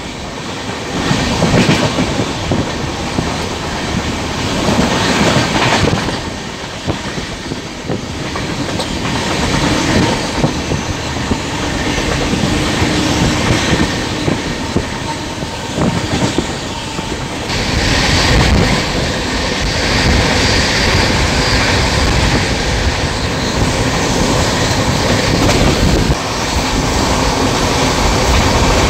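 A passenger train running along the line, heard from inside the coach: steady rumbling running noise with wheels clicking over the rail joints. A little past halfway the noise grows louder and hissier.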